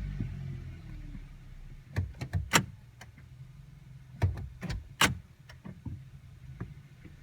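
2012 Hyundai Veloster's four-cylinder engine idling with a steady low hum, under two clusters of sharp clicks and knocks, about two seconds in and again about four and a half seconds in.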